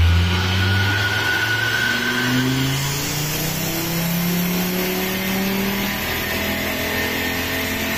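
Turbocharged five-cylinder engine of a modified 1996 Volvo 850R running on a chassis dyno, its revs climbing slowly and steadily over several seconds as in a dyno pull.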